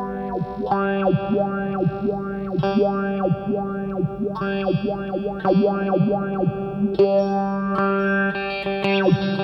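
Electric guitar chords played through a Retrohead Cosmic Phaser pedal. The chords are struck again every couple of seconds and left to ring, while a fast phase sweep washes through them about twice a second.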